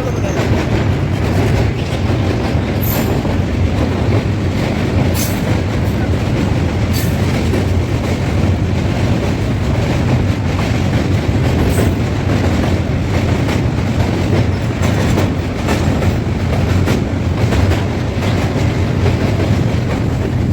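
Passenger train running at speed: a steady heavy rumble with scattered clicks and clacks of the wheels over the rails.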